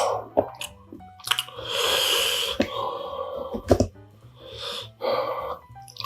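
Close-up eating sounds: a person chewing food, with several longer breathy slurps and short wet mouth clicks.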